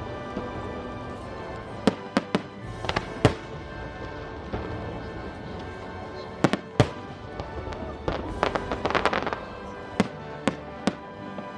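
Aerial fireworks bursting: about ten sharp bangs spread irregularly, with a dense burst of crackling around eight to nine seconds in, over steady background music.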